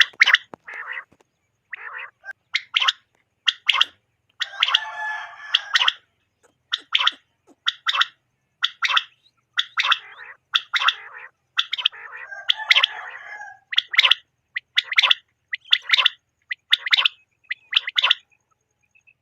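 Common quail calling over and over: short, sharp call notes about once a second, often in quick groups of two or three. Two longer, harsher stretches come about five and thirteen seconds in.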